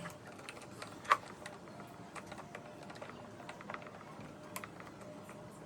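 Light clicks and small knocks of plastic and metal table-fan parts being handled during the repair, with a sharper click about a second in and another near the end.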